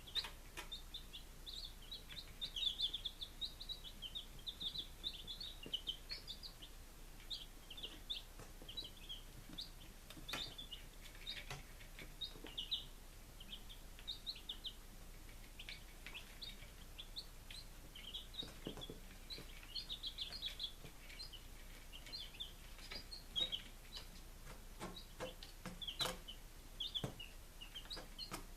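Five-day-old baby chicks peeping: many short, high chirps overlapping without pause. Occasional sharp clicks and taps are heard among them.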